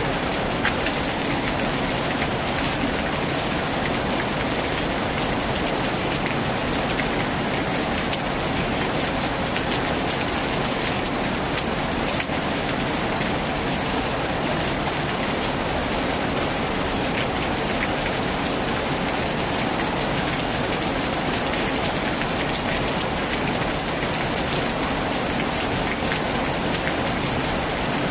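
Heavy rain falling steadily on a tin roof, a dense, even downpour with scattered sharper drop hits.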